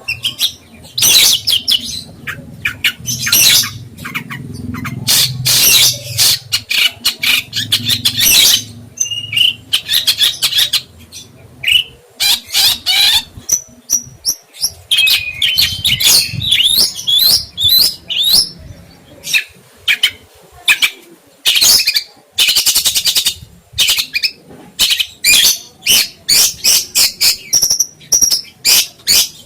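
A songbird singing a long, busy song of rapid chirps, trills and harsh squawky notes, with some sweeping whistled notes in the middle.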